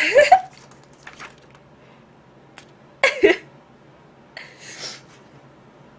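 Two short wordless vocal sounds from a woman, one at the start and one about three seconds in, each with a quick slide in pitch, then a brief soft hiss about a second and a half later.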